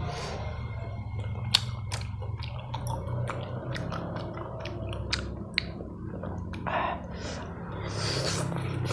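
Close-up eating sounds: chewing and mouth noises of chewy Korean tteokbokki rice cakes in sauce, with many short sharp clicks and a couple of brief noisy smacks in the second half.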